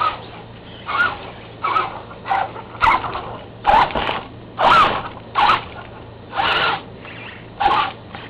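Electric RC monster truck run in short throttle bursts: about ten quick rasping spurts of motor and tyres, roughly one a second.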